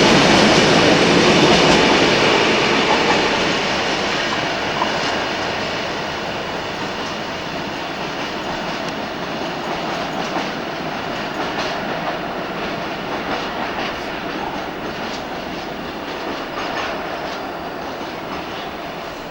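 Freight train rolling past, its wagon wheels clattering over rail joints, the sound slowly fading as the train draws away.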